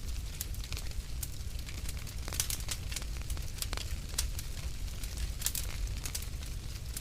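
Wood fire burning in a fireplace: a low steady rumble of flames with irregular sharp crackles and pops from the burning logs, coming in small clusters.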